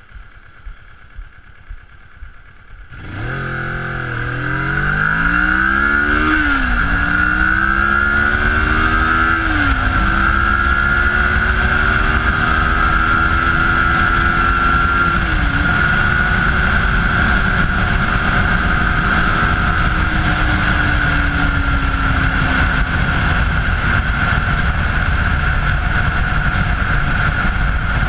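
Kawasaki ER-6n's parallel-twin engine idling, then accelerating hard from about three seconds in. The revs climb and drop at three gear changes, about 6, 9 and 15 seconds in, then hold at cruising speed and slowly ease off near the end, with wind and road noise throughout the run.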